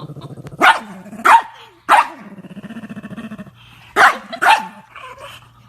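Golden retriever puppy barking: three sharp barks in quick succession, then two more about four seconds in, with low growling between them.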